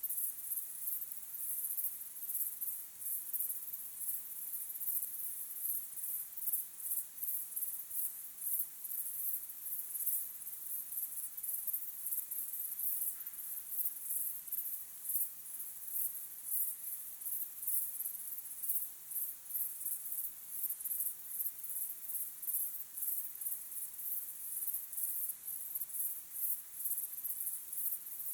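Crickets chirping in a steady evening chorus: high-pitched, evenly repeating pulses, a few a second.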